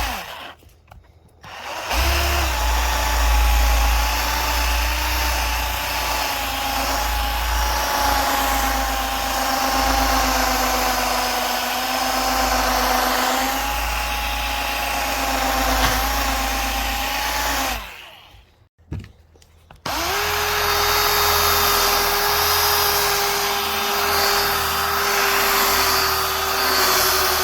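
Milwaukee mini rotary polisher running with a steady motor whine, buffing out wet-sanding marks on car paint. It runs for about sixteen seconds, stops, then starts again a couple of seconds later at a lower pitch and winds down near the end.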